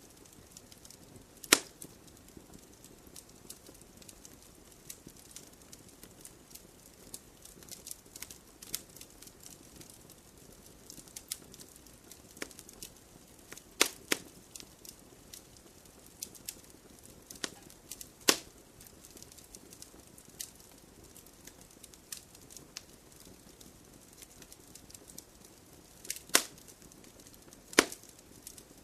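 Wood campfire burning in a stone fire pit: a soft steady hiss with frequent small crackles and a handful of loud sharp pops from the burning logs.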